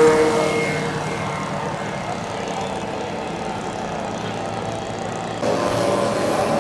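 Engine of a giant-scale radio-controlled warbird model in flight. Its steady tone fades away in the first second, leaving a steady rushing engine noise. About five and a half seconds in, the sound jumps abruptly louder as another steady engine tone starts.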